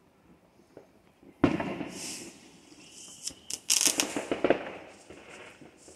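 Consumer fireworks going off: a sudden bang about a second and a half in, then a rapid string of sharp firecracker cracks a couple of seconds later that dies away before the end.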